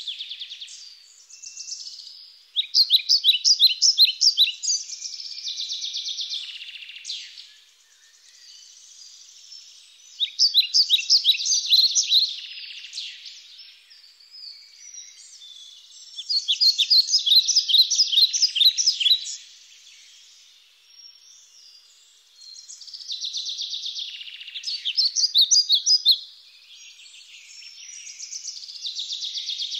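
A songbird singing: a phrase of rapid, sharp chirping notes about three seconds long, repeated about every six to seven seconds, with softer twittering between phrases.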